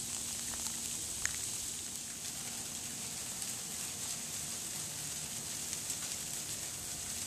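Heavy sleet falling, a steady fine hiss of ice pellets striking the ground and surfaces, with a few faint ticks of individual pellets.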